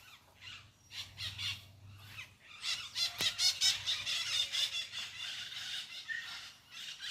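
Birds squawking, with many short, harsh calls that start sparse and become a dense, overlapping chatter about two and a half seconds in.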